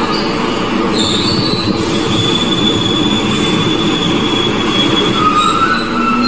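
Glasgow Subway train running into the station: a loud steady rumble with high-pitched wheel squeal, a lower squeal tone joining near the end.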